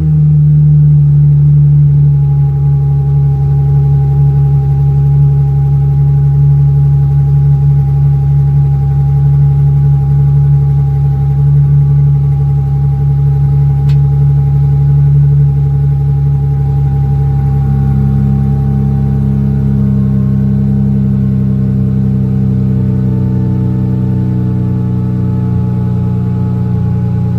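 2017 Dodge Charger's 3.6-litre V6 idling loud and steady just after start-up, heard through single-chamber 13-inch Jones Full Boar racing mufflers on 2.5-inch pipe. The idle settles a little lower about two-thirds of the way through.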